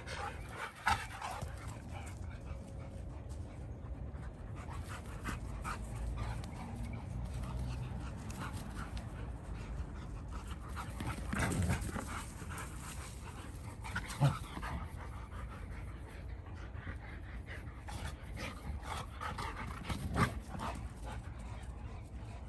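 Rottweilers panting hard and steadily during exercise, with a few brief sharp knocks.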